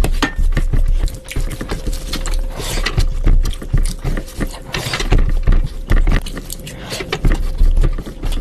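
Close-miked eating: rapid wet chewing, lip smacks and mouth clicks as a mouthful of curry, meat and rice is eaten, with a faint steady hum underneath.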